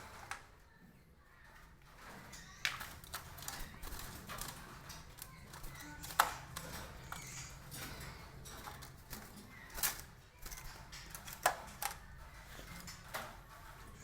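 Caged hill mynas making scattered short, sharp calls and clicks at irregular intervals, with the loudest near six, ten and eleven and a half seconds in.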